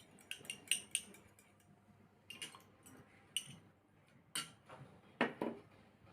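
Irregular light clinks and taps of a kitchen utensil against a bowl while egg is being mixed into buttermilk, with a few louder knocks near the end.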